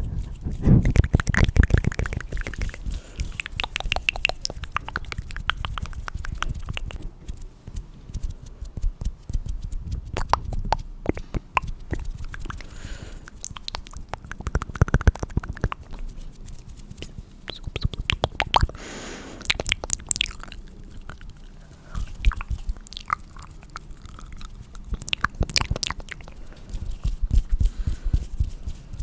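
Close-miked ASMR hand and mouth sounds: a dense run of sticky, wet clicks and crackles, broken by a few short breathy or rubbing hisses.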